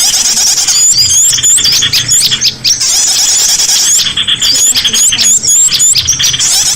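A bird-lure recording of many small birds calling at once: dense, high-pitched chirps, short sweeping notes and a fast trill, overlapping without a break.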